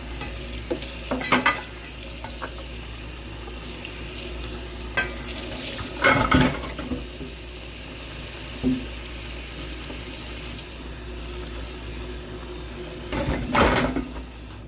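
Kitchen tap running into a sink, with dishes and cutlery clattering loudly three times while they are washed. The running water cuts off at the end.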